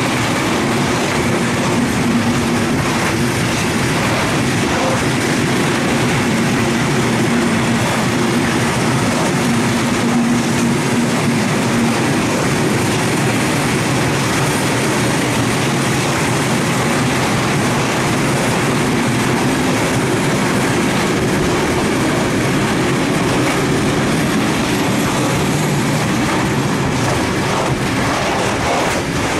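Long freight train of open gondola wagons rolling past at close range: a steady rumble of steel wheels on the rails, with no break or change in level.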